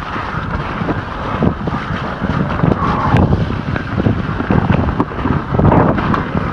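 Wind rumbling and buffeting over the camera microphone of a moving e-mountain bike, with irregular knocks and rattles from the bike over rough trail.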